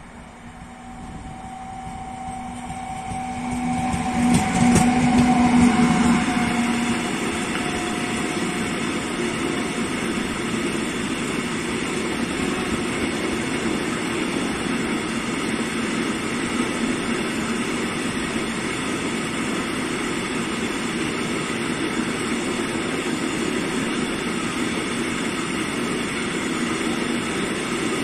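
Freight train passing close by: the locomotive's steady hum grows as it approaches and is loudest about four to six seconds in, then the rolling rumble of the loaded open-top wagons' wheels on the rails carries on evenly.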